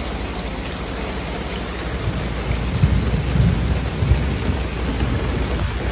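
Heavy rain falling steadily, with low rumbles about three to four seconds in.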